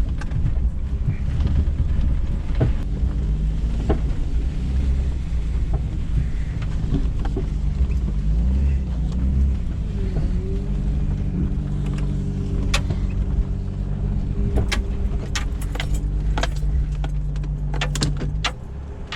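Jeep Cherokee XJ driving off-road, its engine running with pitch rising and falling with the throttle, over a low rumble. Scattered sharp knocks and rattles run through it, and the engine eases off near the end.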